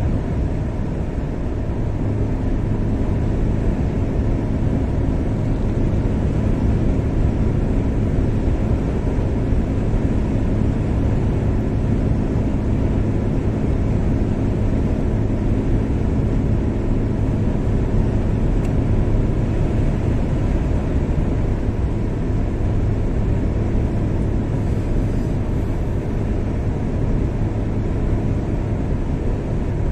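Car driving steadily on a highway: a constant low engine and tyre-on-road rumble with a faint steady hum.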